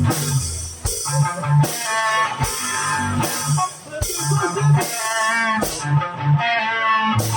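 Live rock band playing an instrumental stretch between vocal lines: guitar playing a melodic line over a drum kit's steady beat and bass.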